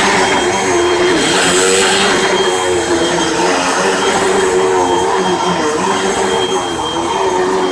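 Hoover WindTunnel Rewind Bagless upright vacuum cleaner running on a rug, a loud steady whirring hiss with a motor note that wavers up and down.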